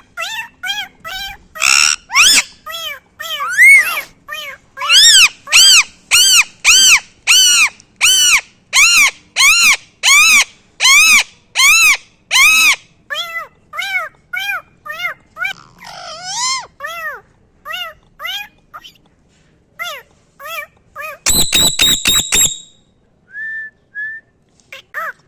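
A parrot giving a long run of short, bark-like calls, each rising and falling in pitch, about two a second, loudest in the middle. Near the end comes a brief rapid rattle with a high ringing tone.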